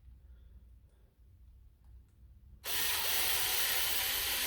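Electric drill driving a screw, running steadily for about two seconds starting a little past halfway, stopped before the screw is fully seated.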